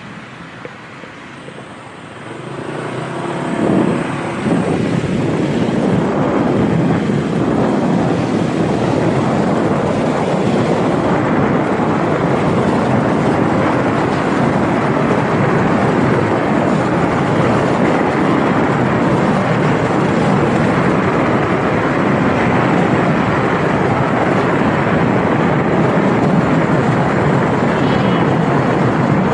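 Motorcycle ride heard from the bike: engine and rushing air noise, quieter at first, swelling a couple of seconds in, then holding loud and steady.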